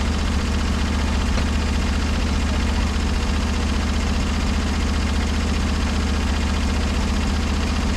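Portable band sawmill's engine running at a steady speed, a constant low hum that does not change.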